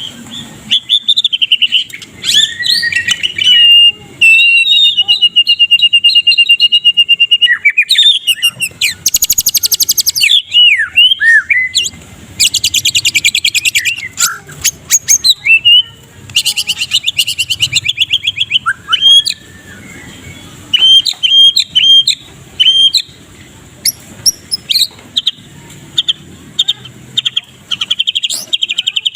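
White-rumped shama singing a loud, varied song: fast trills and rapid note runs, several harsh rattling 'ketrekan' stretches, and whistled slides and short chirps between them.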